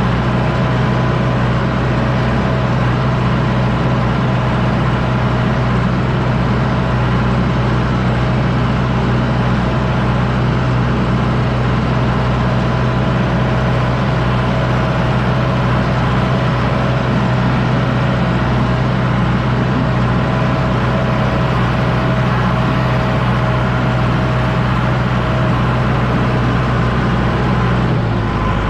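John Deere 6110D tractor's diesel engine running steadily under load while pulling a disc harrow. Its note shifts down slightly near the end.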